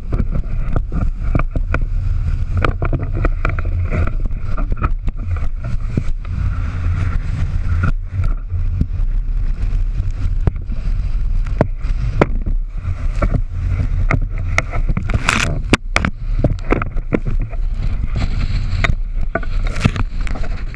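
Sound aboard a sailboat under way at sea: a steady low rumble with many short knocks and clatters.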